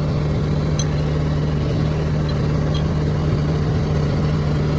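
An engine idling steadily, a constant low hum with no change in speed, with a few faint light ticks over it.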